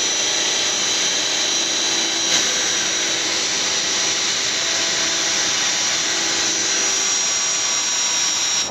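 Power drill running steadily with a high whine as a step drill bit bores a 5/16-inch bolt hole through metal, the bit heating up as it cuts; the drill stops suddenly at the end.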